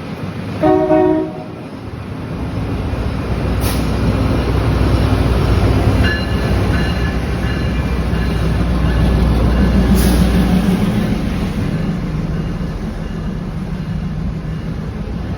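A train horn sounds one short blast about half a second in. A train then passes with a low rumble that builds, holds for several seconds and fades, with a couple of sharp clicks along the way.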